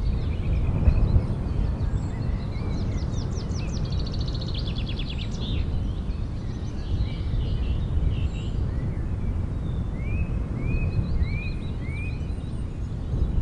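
Outdoor ambience of small birds calling over a steady low rumble: a rapid high trill a few seconds in, and four short rising chirps near the end.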